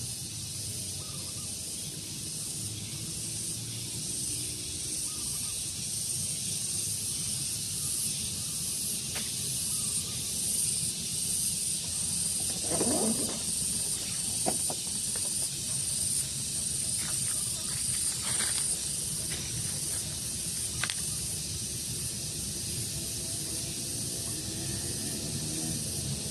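Outdoor daytime ambience: a steady high-pitched hiss over a low breeze rumble, with faint chirps and a few brief clicks and rustles around the middle.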